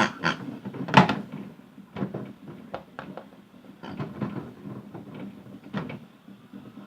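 Hard toys knocking and rattling irregularly inside a turning toy washing machine drum, over the faint steady hum of its small motor; the loudest knock comes about a second in.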